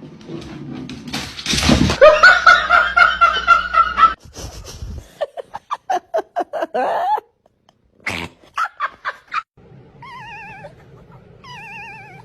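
A string of pet animal noises and human laughter, in several separate bursts, ending with a wavering, warbling high tone.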